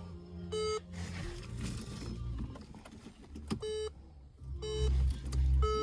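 Short electronic beeps: one near the start, then three more about a second apart in the second half, over a low rumble that grows louder about two-thirds of the way through.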